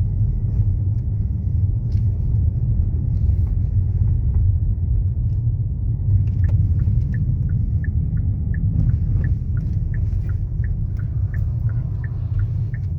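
Steady low rumble, typical of a vehicle driving, heard from inside it. From about halfway in, a light, regular ticking joins it, a little over two ticks a second.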